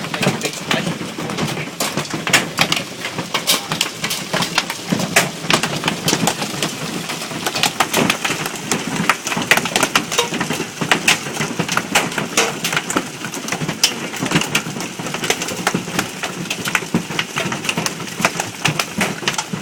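Heavy hail pelting hard surfaces: a dense, irregular clatter of sharp clicks and knocks from many hailstones striking at once, keeping up without a break.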